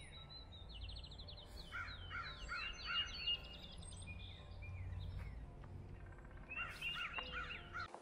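Wild birds calling: a quick high trill about a second in, then several runs of repeated, clear slurred notes. A low steady rumble lies underneath.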